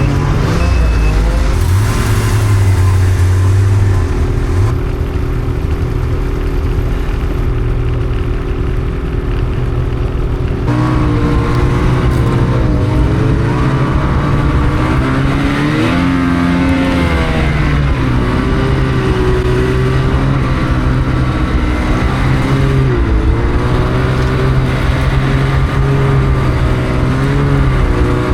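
Snowmobile engine running under load, fairly steady at first, then its pitch rising and falling repeatedly as the throttle is opened and eased, with one marked surge about halfway through.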